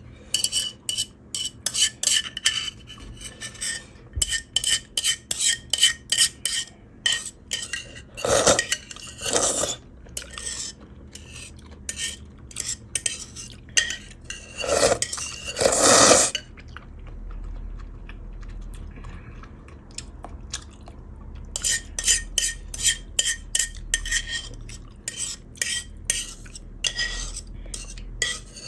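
Metal utensils clinking and scraping against a clay pot in quick runs, with a few louder, longer slurps of noodles partway through and a quieter pause before the clinking starts again.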